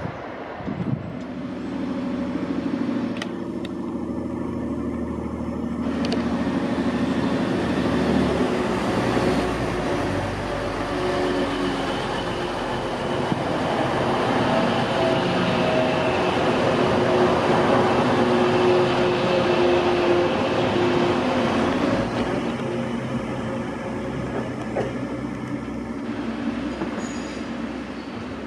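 Diesel multiple-unit trains (Class 156 and Class 185) running on the line: engine drone with steady tones, plus wheel and rail noise. It is loudest in the middle, as the Class 185 runs along the platform close by.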